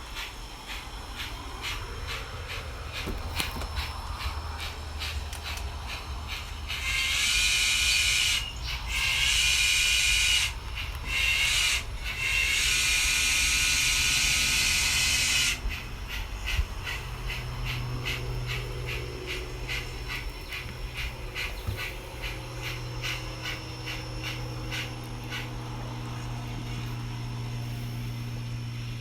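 Model 2-8-0 steam locomotive's sound system chuffing steadily, sounding its whistle in four blasts, long, long, short, long, the grade-crossing signal. A steady low hum follows.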